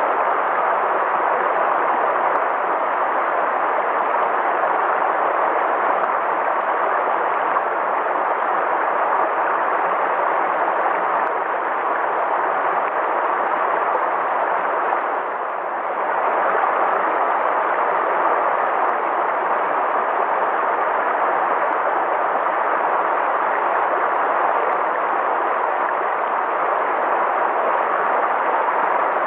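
River water rushing steadily, an even hiss with a brief slight dip in level about halfway through.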